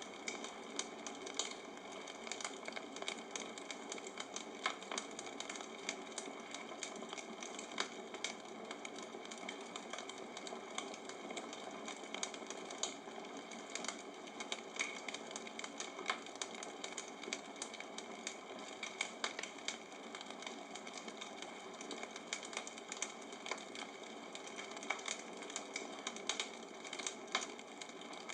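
Bonfire crackling: a steady hiss of burning wood with many small, irregular pops and snaps.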